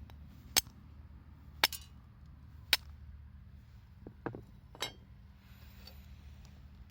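A handful of sharp, separate clinks of hard objects, about a second apart.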